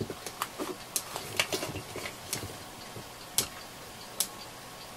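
Handling clicks and knocks of a replacement lithium-ion battery pack being turned over and test-fitted into a cordless vacuum's housing: a cluster of light taps at first, then two sharper clicks near the end.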